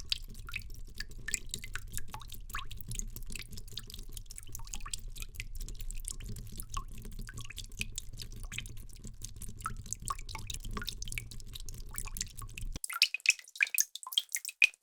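Water drops falling in quick, irregular succession over a low steady rumble. Near the end it cuts to a different recording of louder, sharper single drops.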